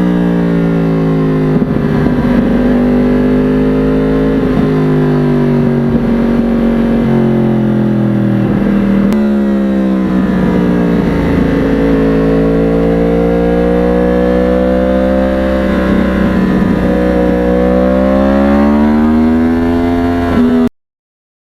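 2009 Yamaha R1's crossplane inline-four running through a custom exhaust on the move. The engine note climbs and falls repeatedly, with sudden drops in pitch as it changes gear and speed. It cuts off suddenly near the end.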